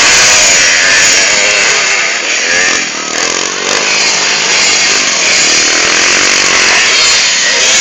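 Motocross bike engines running hard: a loud, buzzy, high-revving sound whose pitch keeps rising and falling as the riders work the throttle.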